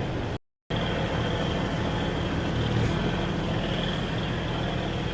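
Steady low vehicle hum with a noisy haze, cut by a brief total dropout about half a second in.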